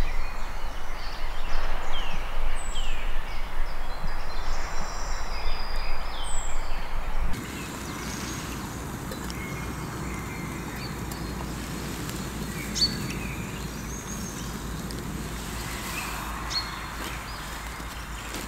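Birds chirping and calling over a steady rushing noise. About seven seconds in the background cuts abruptly to a quieter, lower noise with only occasional bird calls.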